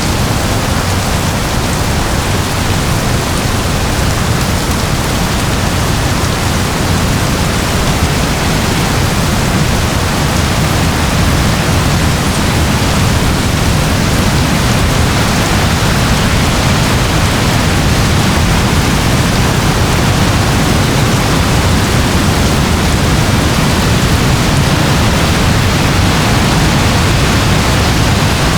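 Steady rain: an even, unbroken hiss with a heavy low rumble underneath and no distinct drops or pauses.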